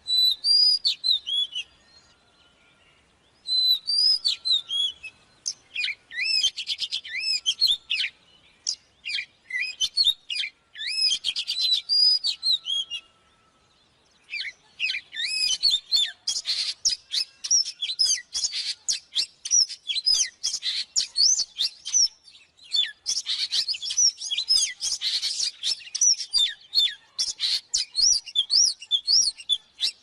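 Oriental magpie-robin singing: phrases of varied whistled notes, rising and falling, with two short pauses, turning into a fast, dense stream of song about halfway through.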